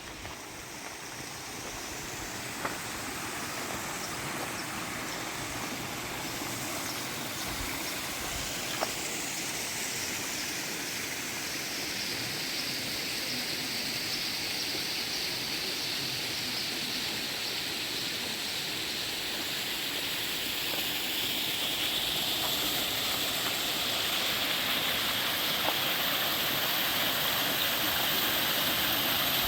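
Flowing stream water, a steady rushing hiss that grows gradually louder.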